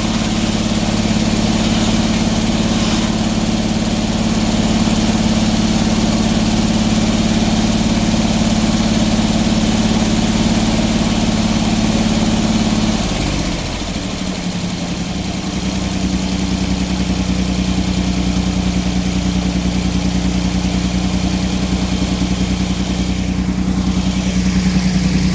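Sawmill engine running steadily; about 13 seconds in it slows and drops in pitch, then settles at a lower, steady idle.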